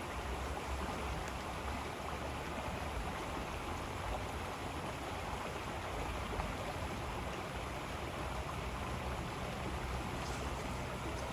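River water flowing and rushing in a steady, even wash.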